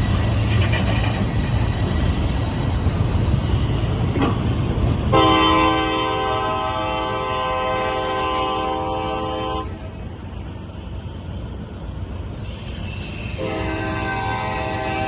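A train rumbling along the rails, then a diesel locomotive's multi-chime air horn blowing twice: one long blast of about four and a half seconds starting about five seconds in, and a second blast starting near the end.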